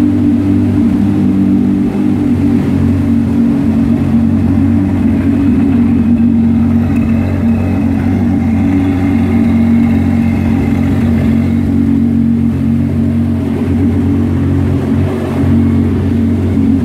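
Scuderia Cameron Glickenhaus supercar's engine idling steadily, an even low drone.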